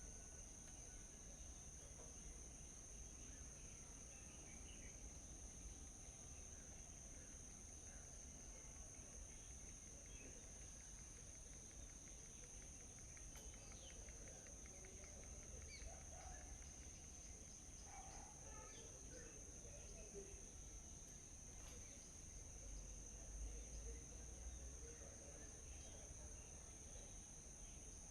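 Faint outdoor ambience: a steady high-pitched insect drone, with scattered faint bird chirps.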